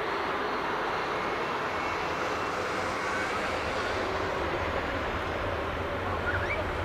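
Jet engines of a Boeing 737 MAX 8 (CFM LEAP-1B turbofans) running, a steady rushing noise with a low rumble that grows stronger in the last couple of seconds.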